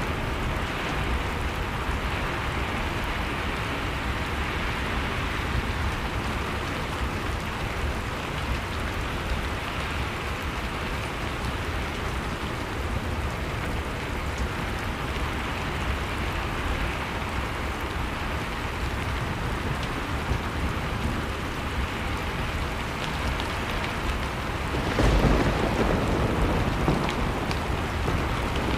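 Blizzard-and-fireplace ambience: a steady rushing noise with fine crackling, swelling into a louder, deep rumbling gust about 25 seconds in.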